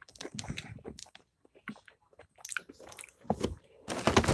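A person chewing crunchy plantain chips: irregular crisp crunches, with a short lull partway through and the loudest crunching near the end.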